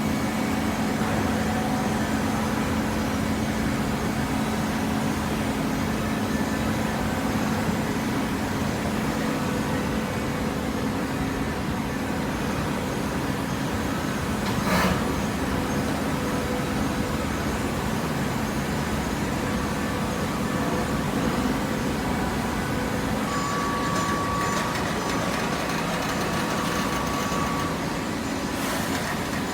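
Steady machine running noise with a low hum. A brief louder rush comes about halfway through, and a faint steady tone joins near the end.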